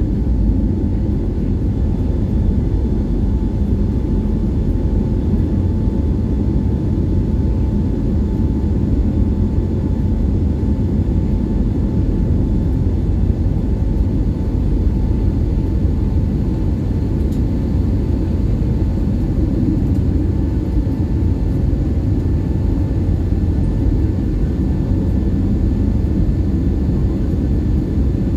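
Airbus A320 airliner in its departure climb, heard from inside the cabin: a steady, loud rumble of jet engines and airflow with a faint steady hum above it.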